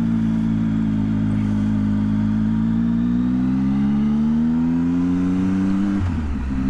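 Motorcycle engine pulling under load: the revs climb steadily, then break and drop with an upshift about six seconds in, and the engine settles into a steady run.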